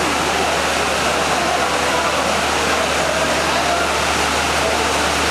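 Indistinct crowd voices over a steady rushing noise, with no single sound standing out.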